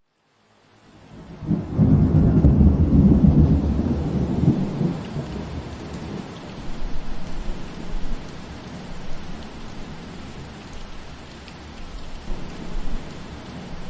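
Steady rain falling, which drops out for under a second at the start; then a long, deep roll of thunder swells up, peaks for a couple of seconds and rumbles away, with smaller low rumbles later under the rain.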